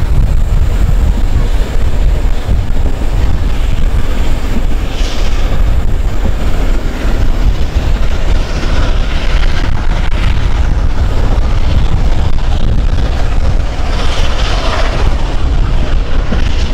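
A steam-hauled passenger train running along the line, heard from an open carriage window: the steady rumble of the carriages with heavy wind on the microphone.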